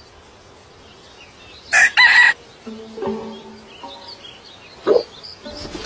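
Birds calling: one loud, two-part call about two seconds in, with softer, lower calls and faint chirps around it.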